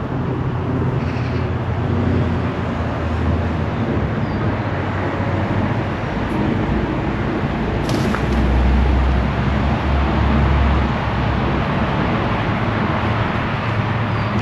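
Road traffic: vehicles passing on a street, a steady noise with a deeper low rumble swelling about eight seconds in.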